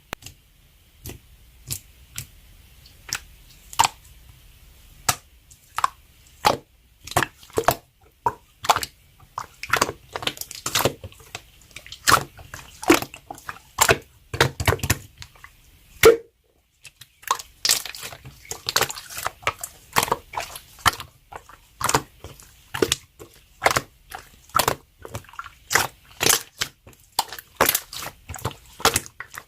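Slime being pressed and stretched by hand, making sharp, irregular clicks and pops of trapped air, a couple each second, with a short break just past the middle.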